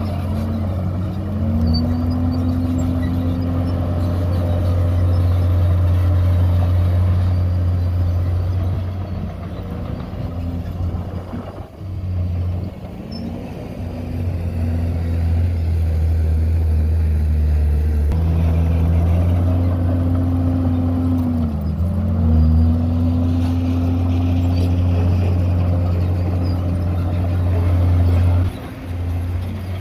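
Komatsu D51PX bulldozer's diesel engine running steadily under work, its pitch dipping briefly and recovering about a second in and again around twenty-one seconds in.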